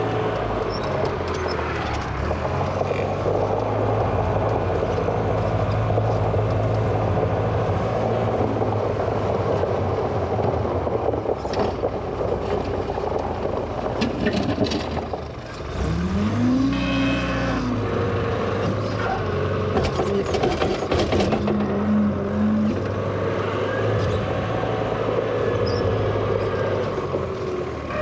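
A 1963 Volvo LM225 wheel loader's diesel engine runs steadily under load. Just past halfway it drops briefly and then revs back up, with a few knocks from the machine in between.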